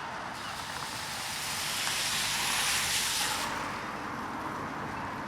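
A hiss lasting about three seconds that swells and then cuts off suddenly, over a steady low background rumble.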